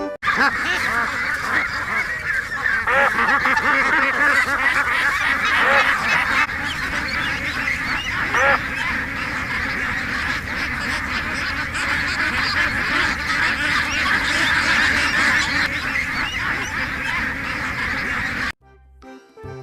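A flock of ducks quacking and calling all at once in a dense, continuous chorus that cuts off suddenly near the end.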